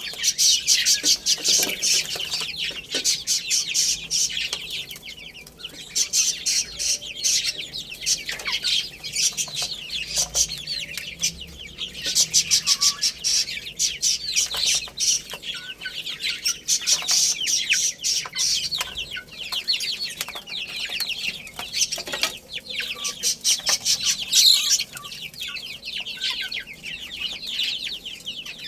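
A brood of baby chicks peeping constantly, many shrill overlapping cheeps that swell louder every few seconds.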